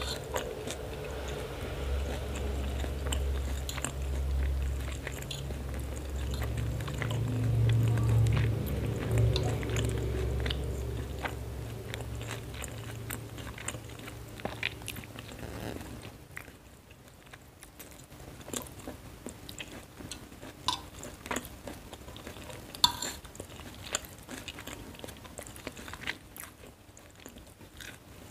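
Close-up chewing of fried noodles, with short clicks of a metal fork against the plate. A low rumble in the background swells for the first half, loudest about a third of the way in, and fades out by the middle.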